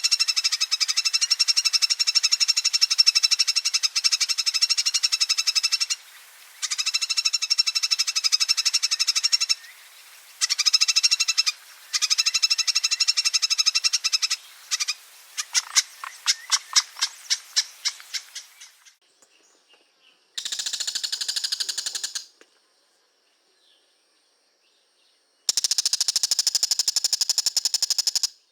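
A songbird's long, fast chattering trill ('ngekek'), given in long runs broken by short pauses. Past the middle the notes slow into separate chips and fade. After a gap come two shorter runs of the same fast trill.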